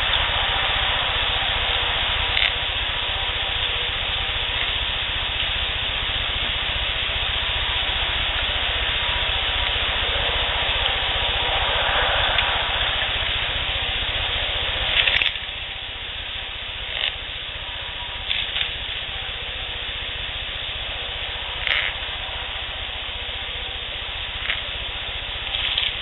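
Heavily amplified outdoor field recording: steady hiss with a low rumble beneath, and about seven brief scratches or knocks scattered through. The hiss drops in level about halfway through.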